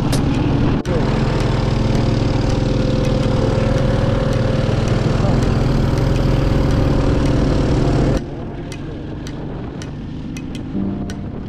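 Motorcycle engine idling steadily. About eight seconds in, it cuts off abruptly to a quieter, steady background.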